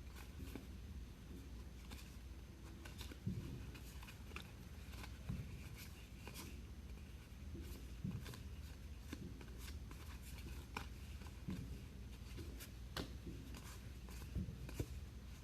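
Baseball trading cards being handled and flipped through: scattered light clicks and soft taps as cards slide and are set down, over a faint steady low hum.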